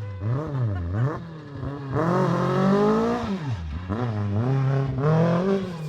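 Renault Clio rally car's four-cylinder engine revving hard under load. The pitch swings up and down twice quickly, climbs for about a second, drops sharply, then climbs again near the end.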